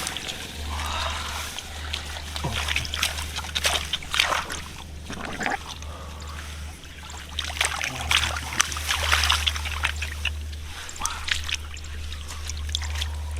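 Shallow muddy water splashing, sloshing and trickling in irregular bursts, as water is stirred and disturbed by fishing in a flooded rice field.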